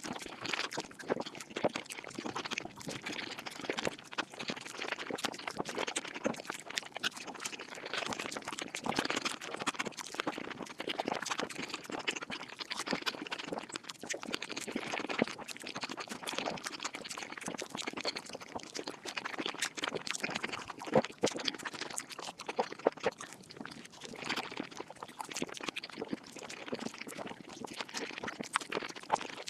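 Mukbang eating sounds played at five times speed: a dense, unbroken run of quick chewing and mouth clicks.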